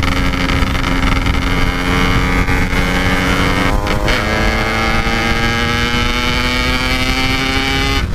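Yamaha RX-King two-stroke single-cylinder motorcycle engine, fitted with a Packing Power 'standart belek' exhaust, running hard under throttle. Its note holds steady, breaks briefly about four seconds in as a gear is changed, then climbs slowly in pitch as the bike accelerates.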